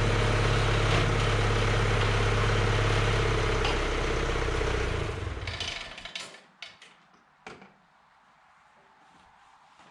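Cockshutt 1450 tractor engine running steadily, then shut off about four seconds in and running down to a stop. A few scattered clicks and knocks follow.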